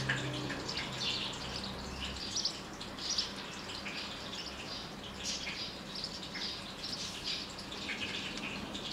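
Small birds twittering, with many short high chirps throughout over a low background hum.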